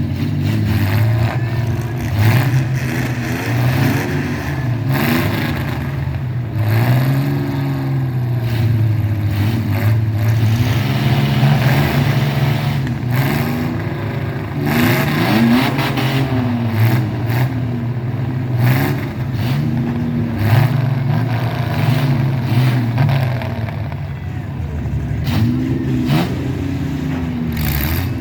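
Mini truck engines revving, the pitch climbing and dropping repeatedly as the throttle is worked on and off.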